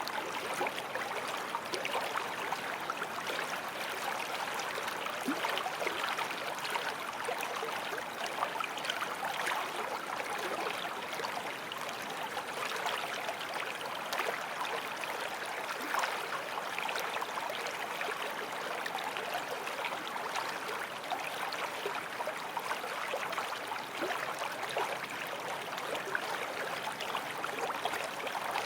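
Forest stream flowing over rocks: a steady rush of water with small splashes and gurgles.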